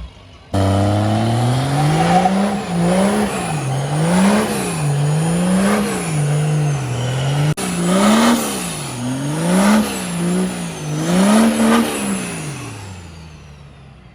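Diesel truck engine revved up and down over and over, its pitch rising and falling about once a second. It starts abruptly, breaks off for a moment midway, and fades out near the end.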